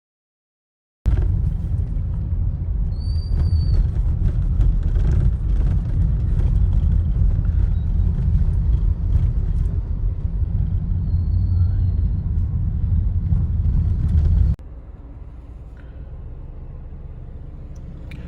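A car on the move: a loud, steady low rumble of road and engine noise. About fourteen seconds in it cuts abruptly to a quieter steady hum.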